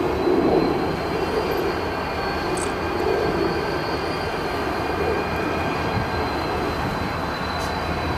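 Approaching freight train led by SOO Line EMD diesel locomotives, the engines running steadily.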